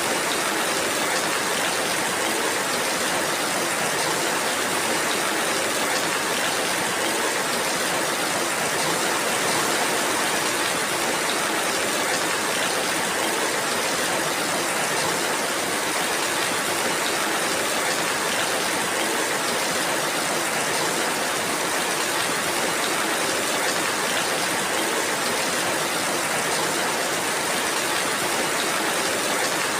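Steady rainfall: an even, unbroken hiss of falling rain that holds the same strength throughout.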